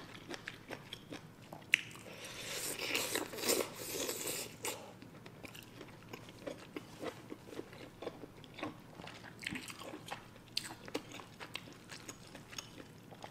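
Close-miked chewing of a mouthful of king crab meat and ramen noodles: wet smacking and many small mouth clicks, busiest from about two to five seconds in.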